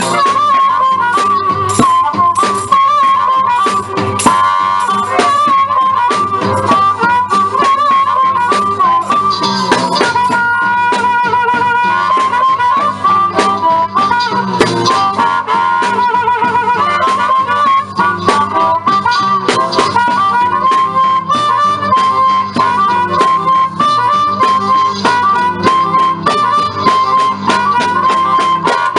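Live blues played by a small band, with a harmonica soloing: a bending, wavering melody line with quick warbling trills, over a steady rhythmic accompaniment.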